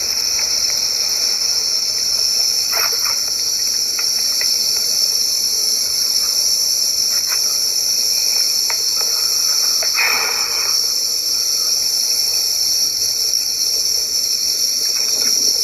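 Steady, loud, high-pitched chorus of summer insects shrilling, with a few short faint rustles and one brief louder noisy burst about ten seconds in.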